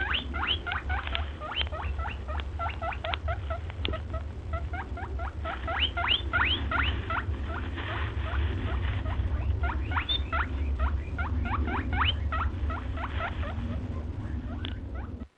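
Small animals squeaking in rapid, high-pitched, short rising calls, many overlapping and several a second, over a steady low hum.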